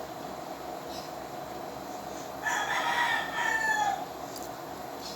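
A rooster crowing once, a drawn-out call starting about two and a half seconds in and lasting about a second and a half.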